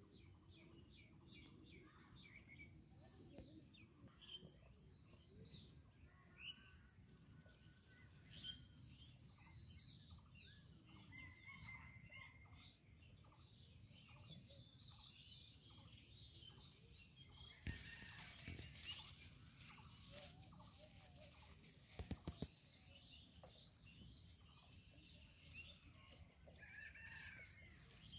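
Faint birds chirping and calling in scattered short notes, with a few sharp clicks about two-thirds of the way through.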